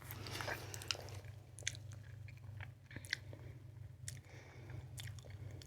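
Faint chewing close to the microphone, with scattered small mouth clicks and crunches, over a steady low hum.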